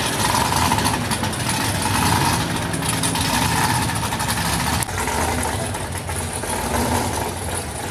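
A vehicle engine idling steadily, with a low rumble, over noisy outdoor background sound.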